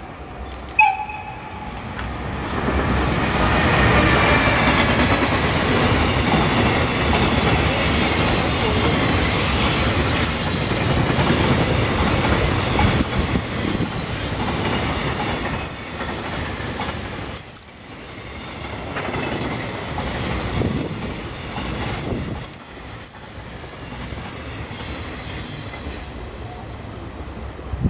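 Twilight Express sleeper train, hauled by an electric locomotive, passing over a level crossing: a brief high toot about a second in, then the clatter of wheels over rail joints, loudest for about ten seconds and easing off as the long train goes by.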